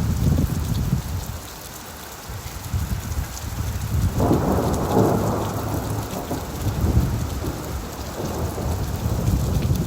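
Steady rain falling on leaves over a deep rumble of thunder; the thunder swells suddenly about four seconds in and dies away over the next couple of seconds.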